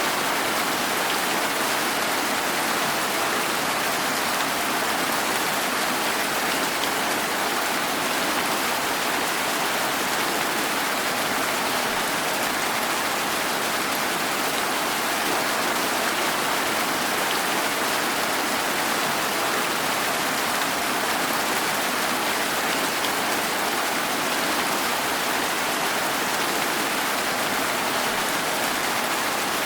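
Steady rain falling: an even, unbroken hiss with no thunder and no single drops standing out.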